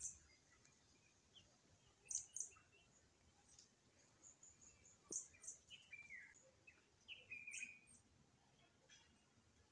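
Faint bird chirps: short, sharp high chirps every second or two, with a few lower, falling calls in the second half.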